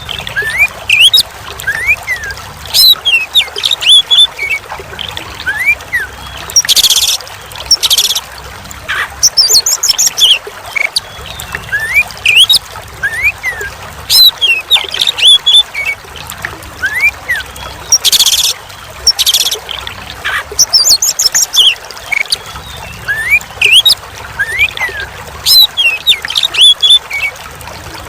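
Oriental magpie-robin singing: short rising whistles, high chattering notes and loud harsh bursts, in a phrase pattern that repeats about every 11 seconds, over trickling water.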